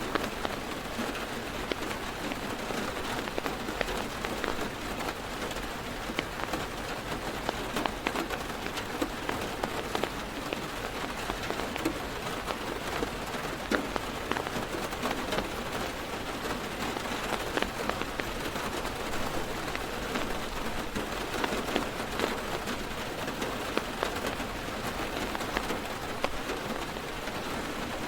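Heavy rain falling on a car's roof and windows, heard from inside the car: a steady patter dense with the ticks of single drops.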